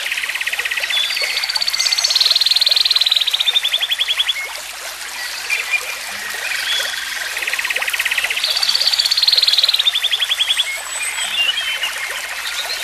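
Nature ambience of calling animals: long trills of rapid pulses, high in pitch and a few seconds each, one after another, with fainter chirps in between.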